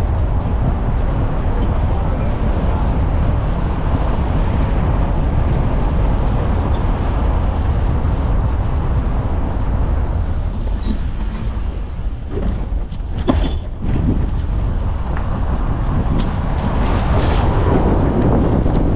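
Steady rumble and road noise of a vehicle travelling along a road. A brief high steady tone sounds about ten seconds in, and a few sharp knocks come around thirteen seconds in.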